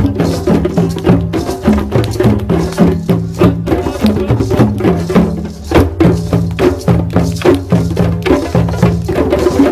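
A group of African hand drums (djembes) playing together in a steady, dense rhythm of sharp slaps, with deeper pitched notes repeating through it.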